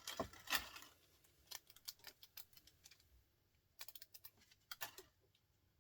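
Irregular small clicks and taps of hand-worked electronic scrap and a small tool, with two quick clusters of rapid clicks near the end.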